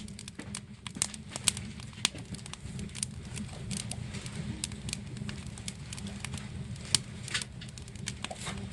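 Wood fire crackling with irregular sharp pops, a few louder ones standing out, over a steady low rumble.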